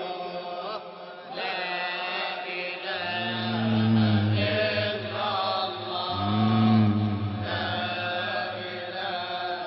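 Sufi dhikr chanting with melodic accompaniment, in the gap between the singer's sung lines. Held, wavering tones carry the tune, and two deep swells of voices come in about three and six seconds in.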